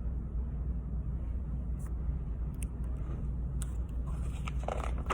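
Steady low background hum, with a few faint clicks and a brief soft rustle near the end.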